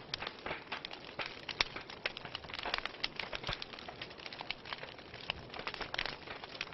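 Wood fire burning in a fireplace, crackling with many irregular sharp snaps and pops over a steady hiss.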